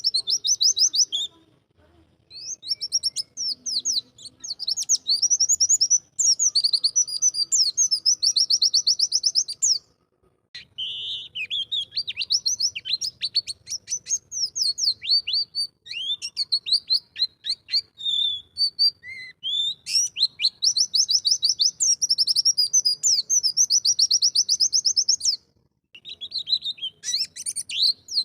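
White-eye (pleci) singing long, fast strings of high, rapidly repeated notes, broken by a few short pauses. This is the rapid-fire 'nembak' song that is played to train captive pleci.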